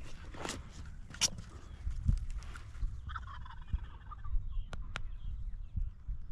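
A wild turkey gobbler gobbling, one short rattling gobble about three seconds in. Wind rumbles steadily on the microphone, with a couple of brief rustles in the first second and a half and two sharp clicks near the end.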